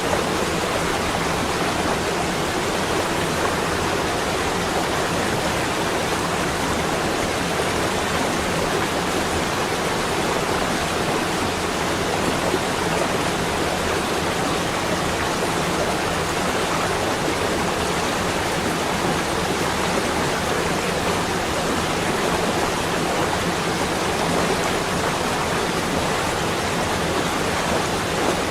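Steady, even rushing noise with no separate events, a constant ambient bed.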